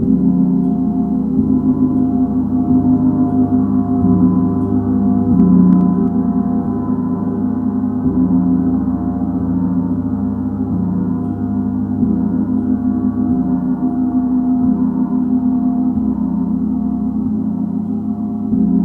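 A gong being struck again every second or two, each new low stroke blending into a dense, sustained ringing wash of overlapping tones.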